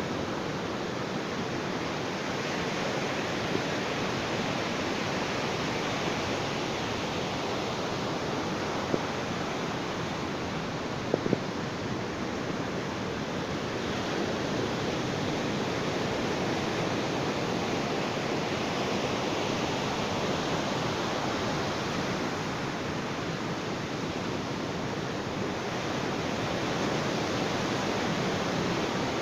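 Ocean surf washing onto a beach: a steady rushing of waves that swells and eases slowly, with a couple of faint clicks about a third of the way in.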